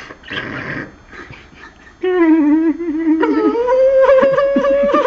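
A long, loud, wavering howl begins about two seconds in and steps up in pitch about a second later. It is preceded by a couple of short hissy sounds.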